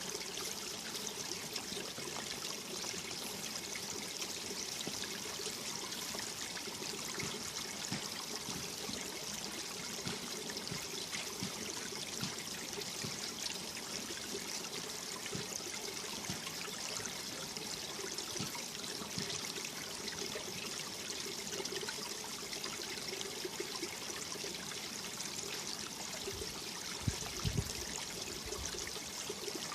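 Mountain stream water flowing steadily over rocks, a constant rushing and trickling, with a few brief low thumps near the end.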